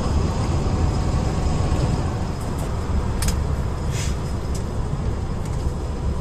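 Tour bus driving along a road, heard from inside the cabin: a steady low engine and road rumble with a few light rattles in the middle.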